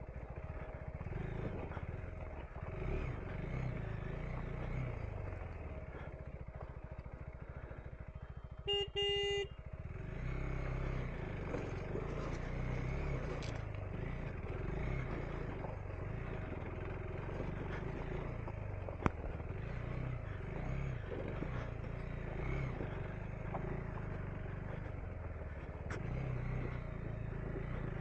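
KTM 390 Enduro R's single-cylinder engine running as the motorcycle rides a rough trail, easing off for a few seconds near the start. About nine seconds in a horn beeps briefly, and a single sharp click comes near nineteen seconds.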